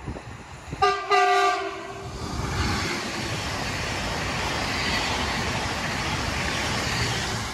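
ED160 (Stadler FLIRT) electric passenger train sounding its horn in a short two-part blast about a second in. It then passes close at speed with a steady rush of wheel and air noise that builds and holds.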